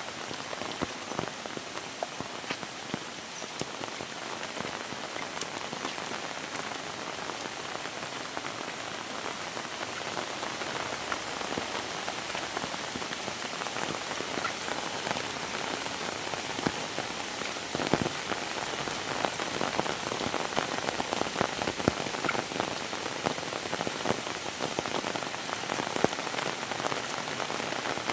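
Heavy rain falling steadily, a dense hiss of rainfall dotted with sharp patters of individual drops striking close by; it grows a little louder in the second half.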